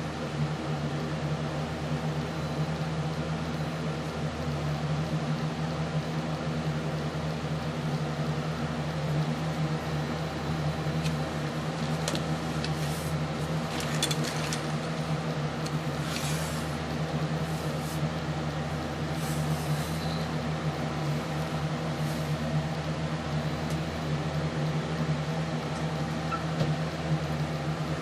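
Steady low mechanical hum from a running motor or appliance, with a few faint brief scratches or clicks partway through.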